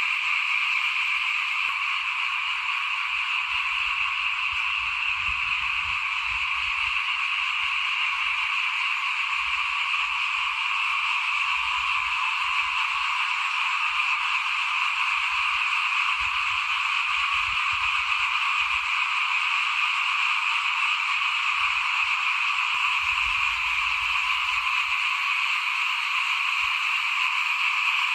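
A dense chorus of many small frogs calling together, a continuous wall of calls with no breaks. Faint low rumbles come and go underneath.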